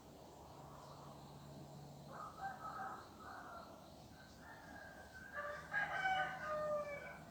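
Rooster crowing twice: a fainter crow about two seconds in, then a louder, longer crow near the end that drops in pitch as it finishes.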